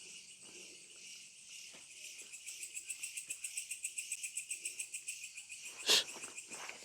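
Frogs calling in a rapid pulsed chorus, about five pulses a second, over a steady chirring of night insects. One sharp click near the end.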